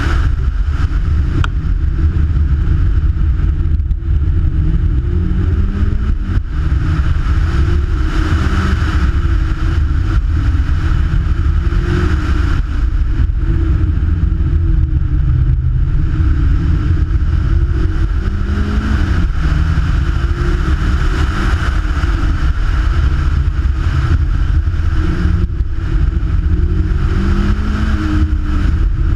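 Kraftwerks-supercharged Mazda MX-5 Miata engine driven hard, its revs rising and falling again and again as it accelerates and lifts. A steady low wind rumble on the microphone runs underneath.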